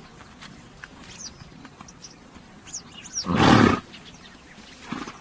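A horse gives one loud, breathy snort about three seconds in, followed by a short, much fainter one near the end. Small birds chirp faintly in the background.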